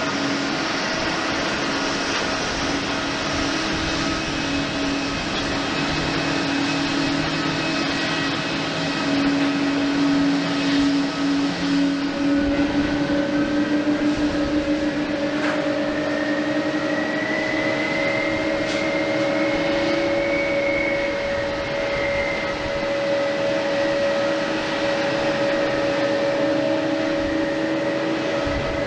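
Jet airliner engines running with a steady whine and several held tones. A higher whine rises slowly through the middle, then eases off.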